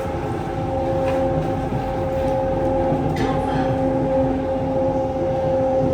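Kawasaki C151C metro train in motion, heard from inside the car: a steady electric traction-motor hum made of several held notes over the rumble of wheels on the track.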